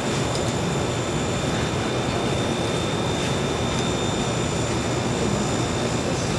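Steady machine noise, an even roar with a faint high whine running through it.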